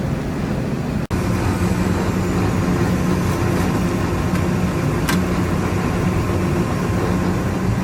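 Heavy diesel engine of road-construction machinery running steadily at a constant pitch, with a brief dropout about a second in and a short click about five seconds in.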